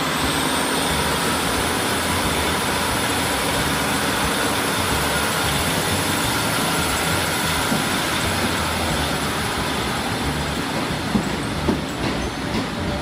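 Class 150 Sprinter diesel multiple unit pulling out along a platform, its engines and wheels running steadily with a thin high whine over the noise. Near the end it grows a little quieter and a few sharp clicks come from the wheels on the rails.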